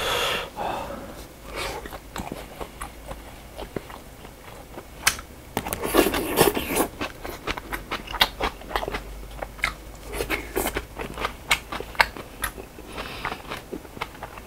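Close-miked chewing of jokbal (braised pig's trotters): many short wet clicks and smacks from the mouth, with a louder, busier stretch of chewing about six seconds in.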